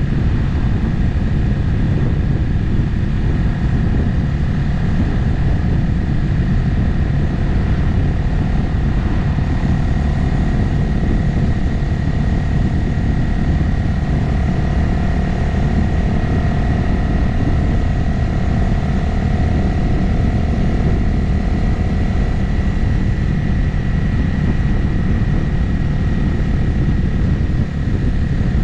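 Motorcycle engine running at a steady cruising speed, its note holding even, under a heavy, steady low rush of wind and road noise.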